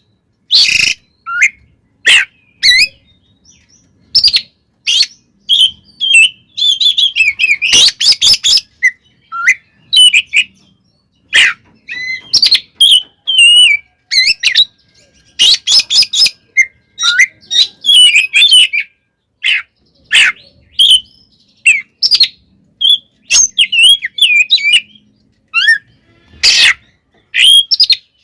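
Oriental magpie-robin (kacer) singing its loud, aggressive fighting song: fast runs of varied whistles, trills and harsh notes in bursts separated by short pauses.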